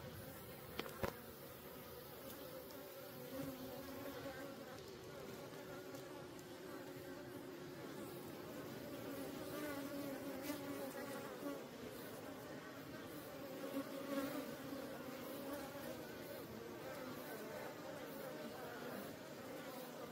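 Swarm of native Korean honeybees (Apis cerana) buzzing around their wild nest, many wingbeat tones overlapping and wavering, swelling and easing.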